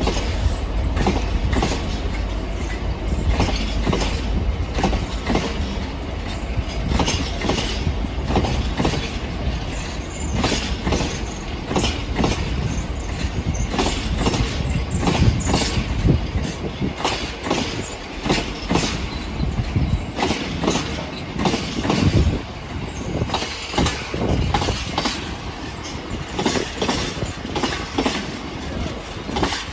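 A train running through the station, its wheels clattering in many sharp clicks over rail joints, over a heavy low rumble that eases off about halfway through.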